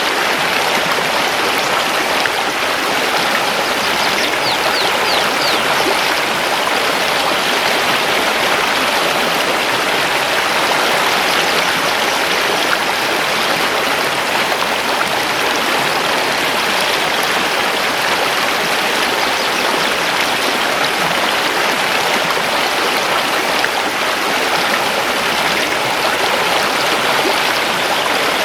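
Mountain river flowing over stones: a steady, even rushing of water. A few faint, short, high chirps come through about four seconds in.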